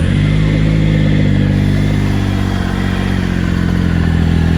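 Triumph three-cylinder motorcycle engine just started from cold, running at a steady idle with a rattle in the first couple of seconds. The owner wonders whether the rattle is the valve clearances needing adjustment or a cam chain that has worn loose.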